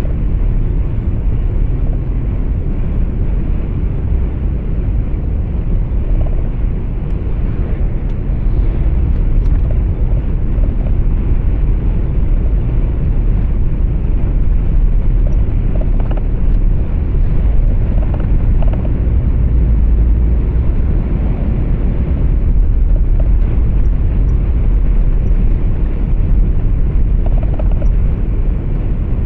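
Truck engine and road noise heard inside the cab while driving: a steady, deep, continuous sound with no break.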